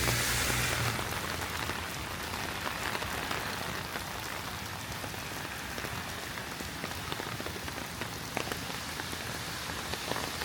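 Heavy rain falling steadily on pavement, a dense hiss with many close, sharp drop ticks. In the first second a louder hiss with a low rumble fades away.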